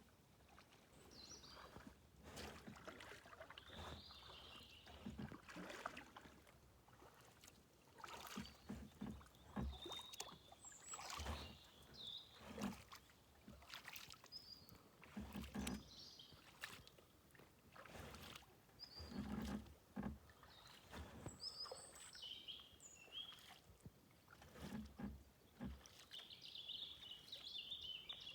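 Kayak paddle strokes dipping into calm water, a soft splash every one to two seconds, with high chirps scattered over them.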